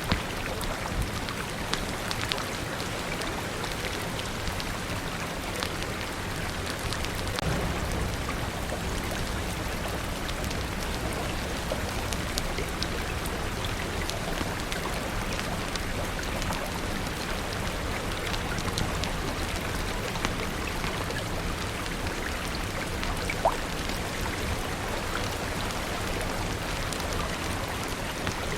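Steady rain falling, with scattered sharp ticks throughout and one louder pop about 23 seconds in.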